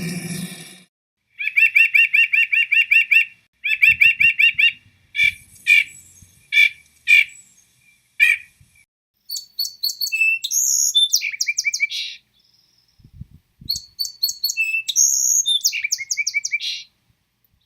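Songbird calls in separate bursts: two runs of a fast, even trill, then a series of single sharp chirps, then a longer varied song phrase given twice. The silence between the bursts is complete.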